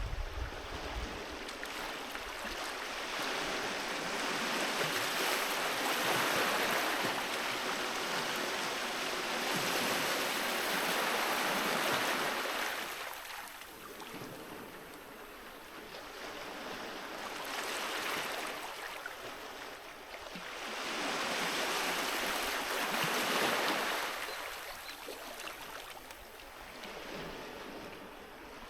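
Sea waves washing onto a beach, the surf swelling and fading in slow surges several seconds long.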